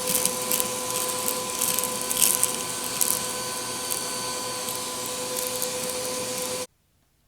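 Compact vacuum cleaner running with a steady high motor whine, small river rocks clicking and rattling as they are sucked up. The sound cuts off abruptly near the end.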